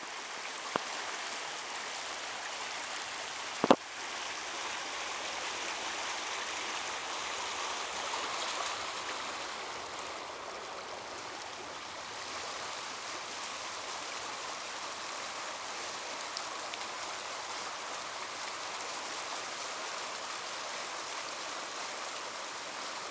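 Rain-swollen wash running high and fast: a steady rush of water. A single sharp knock a little under four seconds in.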